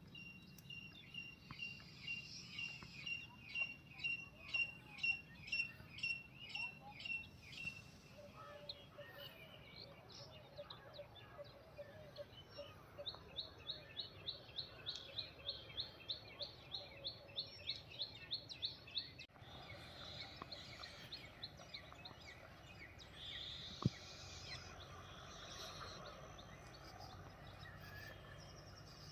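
Birds calling outdoors. One clear note repeats about twice a second for several seconds, and later a faster series of higher notes follows, with scattered chirps throughout. A single sharp click comes late on.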